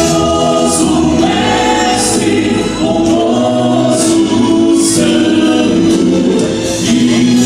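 Vocal quartet singing a gospel song in harmony, holding sustained chords.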